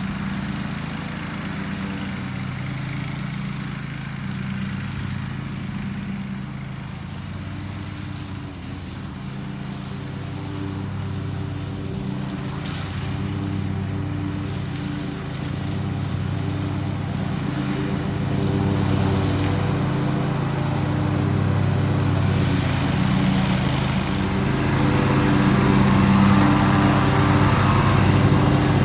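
Riding lawn mower engine running steadily while mowing grass, growing louder over the last several seconds.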